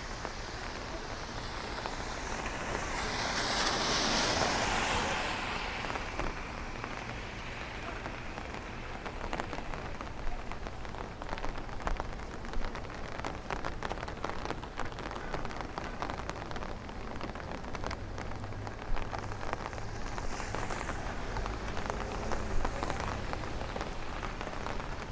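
Steady rain falling on a city street, with a car passing on the wet road about three to five seconds in. Sharp ticks of nearby drops come through later on.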